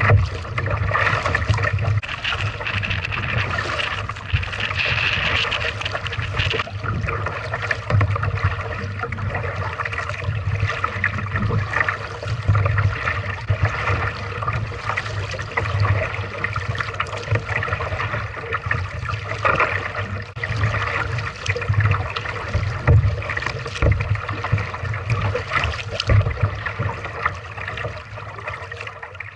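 Water trickling and splashing around a kayak being paddled, in uneven surges every few seconds.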